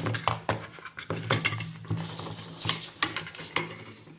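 Light metallic clicks, taps and scraping of hand tools or test probes against a circuit board, over a faint low steady hum.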